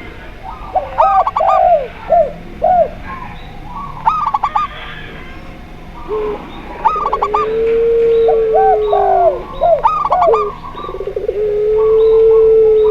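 Mixed cooing of zebra dove, spotted dove and puter pelung turtle dove: long, drawn-out low coos alternate with clusters of short, higher hooked coo notes that come round about every three seconds.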